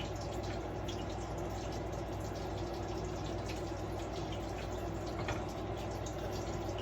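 Food sizzling in a frying pan: a steady hiss with scattered small crackles over a low hum.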